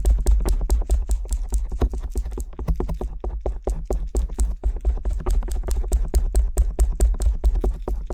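Stainless steel ear pick tapping rapidly on the silicone ear flap of a 3Dio binaural microphone, about seven or eight sharp clicks a second, each with a dull low thump of contact on the mic ear.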